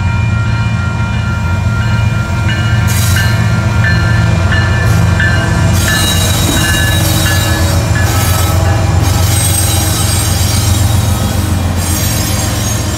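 Union Pacific diesel locomotives passing close by with a steady deep engine drone, followed by the train's wheels on the rails, with high-pitched wheel squeal from about six seconds in.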